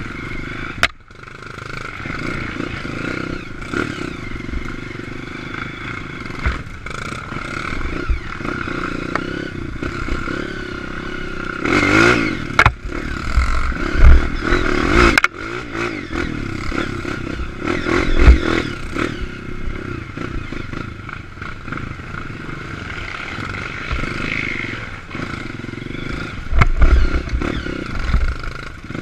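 Honda CRF230 trail motorcycle's single-cylinder four-stroke engine running and revving under way, with clatter and several heavy thuds from the bike over the ground.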